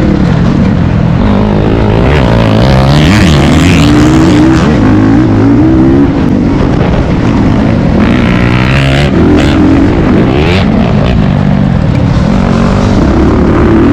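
Motocross dirt bike engine running loud, its revs climbing and dropping again and again as the throttle is opened and closed.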